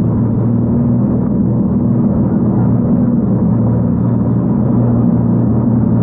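Jet boat engine running steadily under way, a loud low drone that holds one pitch.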